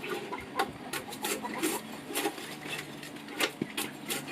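Short, irregular scraping strokes on wood, a few a second.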